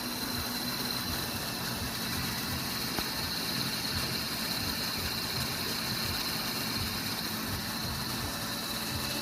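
Electric drill running steadily with a high whine, spinning a part against an abrasive to polish it, lathe-style; one brief click about three seconds in.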